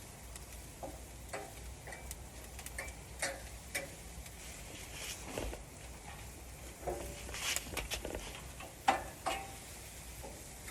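Scattered light clicks, taps and brief squeaks at irregular intervals as raw chicken wings are handled and pulled apart, over a low steady background hum.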